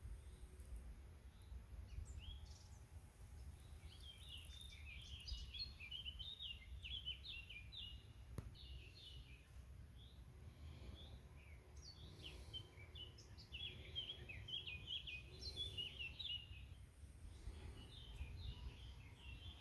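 Small birds singing and twittering in quick chirpy phrases, in two long bouts, faint over a steady low rumble.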